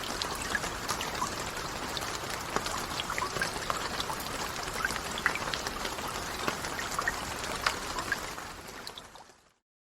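Steady rain falling, with many individual drops ticking sharply through the hiss. It fades out near the end to silence.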